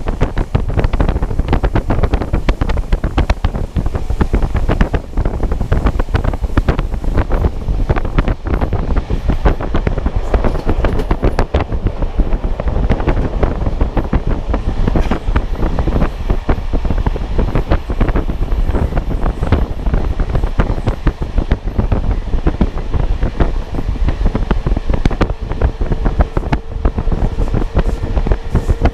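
Heavy wind buffeting on the camera's microphone from a moving train, with the train's running noise underneath. A faint steady whine comes in near the end.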